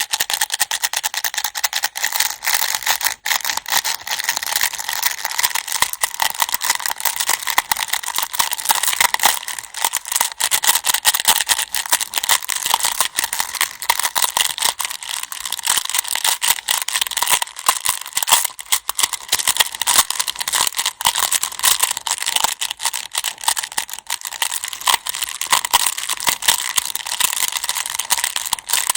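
Go stones clattering together in a dense, continuous stream of small clicks.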